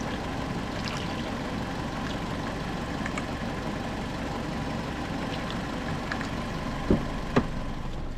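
Fiat 1.2 FIRE four-cylinder petrol engine idling steadily while it warms up with the thermostat still closed, during bleeding of the cooling system. Two short sharp clicks about seven seconds in.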